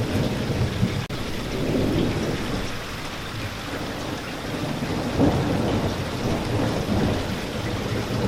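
Steady rain falling, with low rolling thunder that swells and fades several times, loudest about five seconds in.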